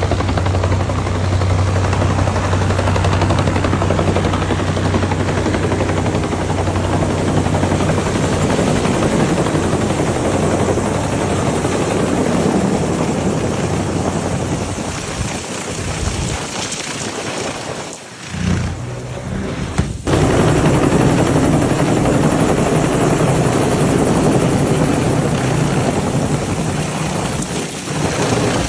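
Helicopter running: a loud, steady engine and rotor noise with a low hum. It falls away for a few seconds past the middle, then comes back suddenly.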